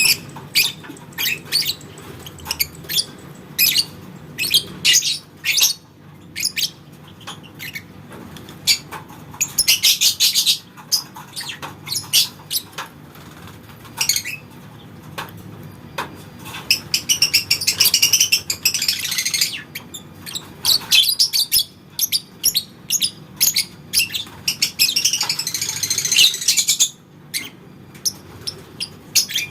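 Lovebirds calling: a string of sharp, high-pitched chirps broken by three long runs of rapid chattering, about ten, eighteen and twenty-five seconds in. These long chatter runs are the 'ngekek' trill prized in competition lovebirds.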